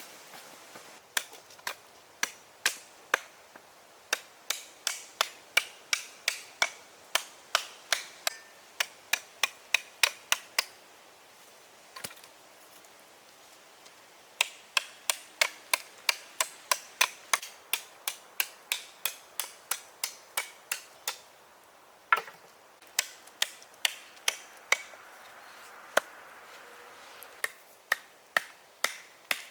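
A hand tool striking wood over and over, about two sharp strikes a second, in runs broken by short pauses.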